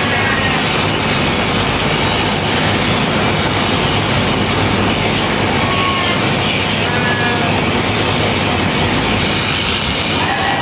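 Sheep-shearing machine running steadily, a constant mechanical noise, with a few short, faint high-pitched tones over it.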